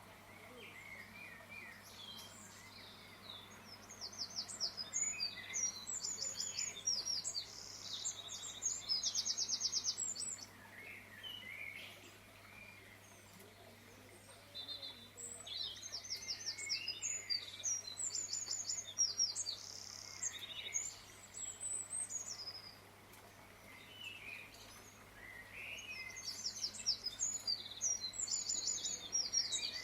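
Birds chirping and singing: bouts of high, rapid trills with shorter chirps below them, coming three times with quieter gaps between, over a faint steady low hum.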